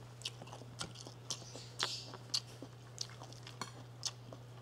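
Close-miked chewing of a mouthful of rice and sautéed bamboo shoots: short wet clicks and light crunches, about three a second, over a low steady hum.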